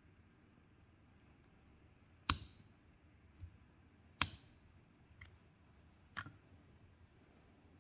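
Sharp metallic clicks of a hand tool against metal parts: two loud clinks about two seconds apart, each with a brief ring, then two fainter clicks.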